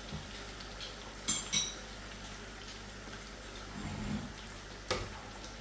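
A cooking utensil clinks against a pot: two ringing strikes about a second in and another near the end. These are the sounds of a blended ingredient mixture being added to the curry.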